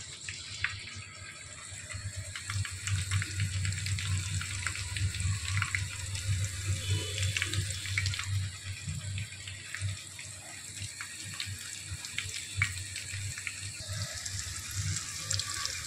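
Stuffed eggplants frying in oil in an aluminium pot: a steady sizzle dotted with small crackles, over a low hum that is strongest in the middle.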